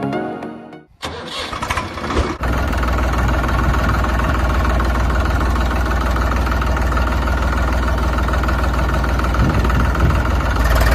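Tractor engine starting: a brief cranking and catch about a second in, then running steadily at idle with a deep low rumble.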